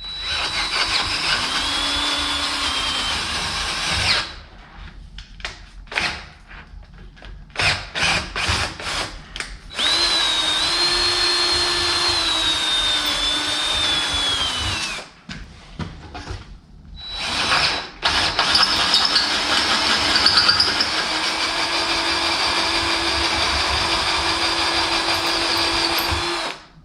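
Electric drill boring holes through spacers: three long runs with the motor's whine dipping and recovering under load, and several quick trigger blips between the first and second runs.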